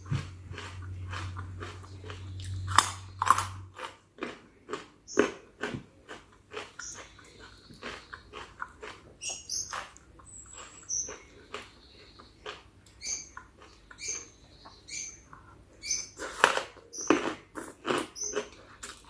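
Close-miked eating of spicy chicken feet salad: wet chewing, biting and lip-smacking in irregular short clicks and smacks.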